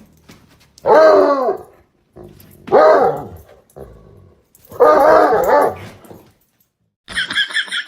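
A dog giving three loud, drawn-out vocalizations about two seconds apart, each rising and then falling in pitch. Near the end a higher, rapidly pulsing sound begins.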